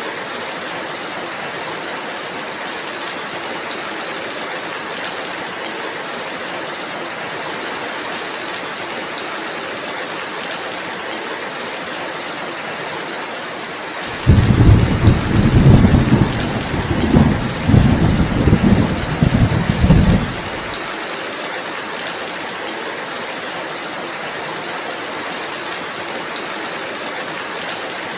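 Steady rain falling, with a loud roll of thunder that breaks in suddenly about halfway through, rumbles in waves for about six seconds, then stops.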